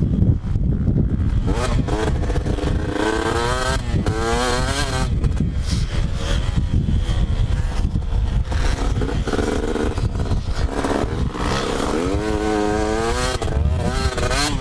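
Two-stroke motocross bike engine revving hard through the gears while being ridden, its pitch repeatedly climbing and dropping back, over a constant heavy rumble and clatter.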